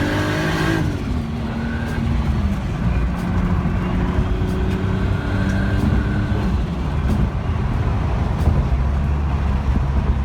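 Car driving on the road: engine running with steady road noise, its pitch dropping about a second in as the car eases off, then holding steady.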